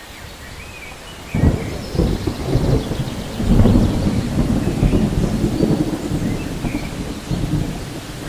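Steady rain, with thunder breaking in about a second in and rolling on as a low, swelling rumble.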